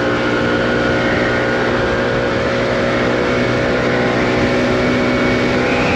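Scooter engine running at a steady cruising speed while riding, its tone holding level throughout.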